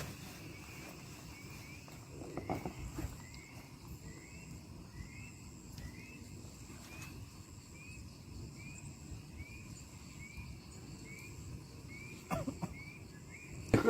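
A small animal's call: short rising chirps repeated about twice a second, over a faint steady high whine. A few knocks about two and a half seconds in and near the end, the loudest right at the close.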